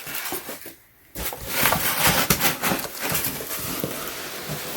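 Packaging and flat-pack nightstand parts being handled and moved aside: rustling with many light knocks and clatters, pausing briefly about a second in.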